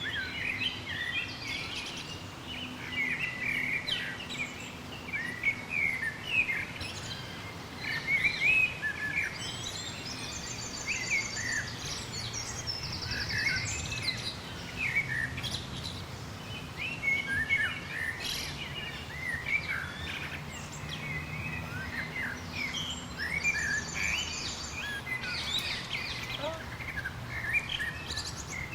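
Many songbirds singing and calling together in a dense chorus of short chirps and whistles, with a fast high trill cutting in a few times. A low steady rumble runs underneath.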